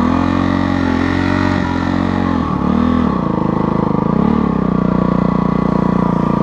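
Motocross bike engine running, its throttle blipped several times so the pitch swells and drops, then held at a steady speed for the last couple of seconds.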